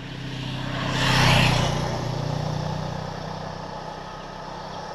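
A motor vehicle drives past close by on the road: its engine and tyre noise swell to a peak about a second in and then fade away as it goes off.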